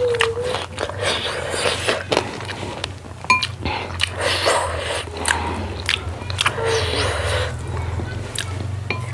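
Close-miked chewing and mouth sounds of someone eating a dal bhat meal of rice, dal, fried beans and buffalo meat: repeated lip smacks and clicks with bursts of crunching.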